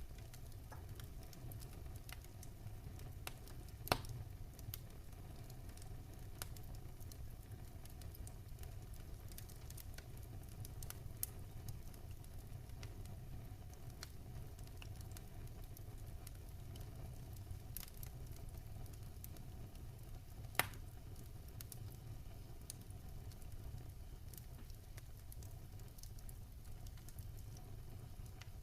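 Wood fire in a fireplace burning with a low steady rumble and scattered faint crackles, with two sharper pops about four seconds in and near twenty seconds in.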